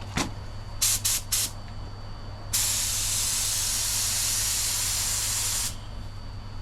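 Paint spray gun giving three short bursts, then a steady spray of about three seconds that stops abruptly, laying clear coat on a repaired bumper. A faint steady low hum runs underneath, and a single click comes just before the bursts.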